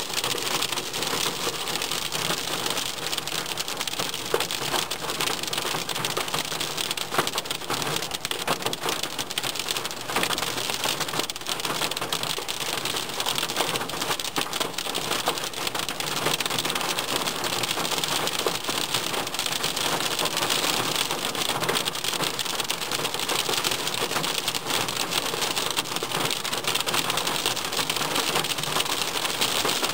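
Rain falling steadily, a dense even hiss of many drops.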